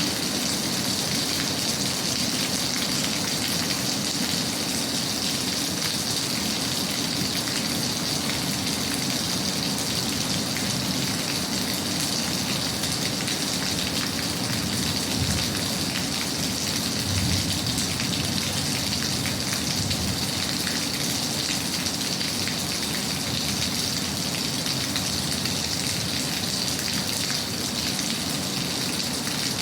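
Steady rain falling in an even hiss, with a couple of brief low thumps about halfway through.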